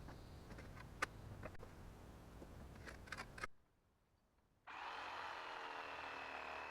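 A few sharp clicks and knocks, then, about five seconds in, a power drill runs steadily for about two seconds.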